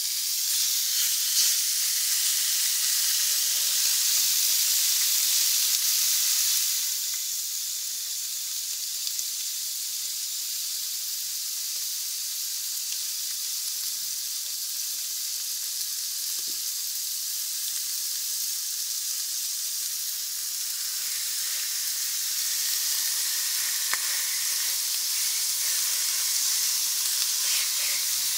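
Spicy marinated chicken pieces sizzling in a hot nonstick frying pan: a steady high hiss that eases a little about seven seconds in and swells again toward the end.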